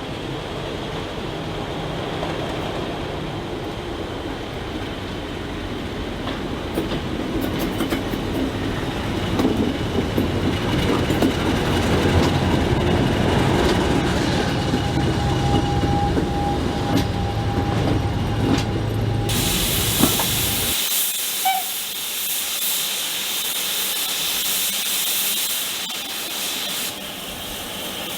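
Train running on the rails, its rumble growing louder for about twenty seconds. The rumble then cuts off abruptly and a steady loud hiss takes over.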